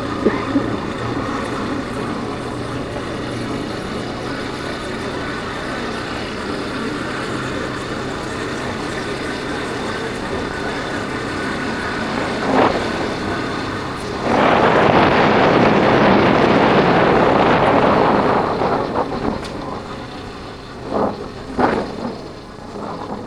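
Yamaha Factor 150's single-cylinder four-stroke engine running steadily under way, with wind and road noise. About fourteen seconds in, a loud rushing noise swells up for around four seconds and then fades.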